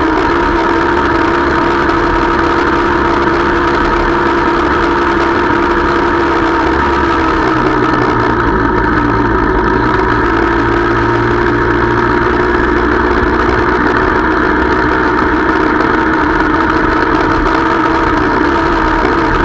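Motorcycle engine running steadily while riding, heard from on the bike itself. The engine note shifts slightly about halfway through.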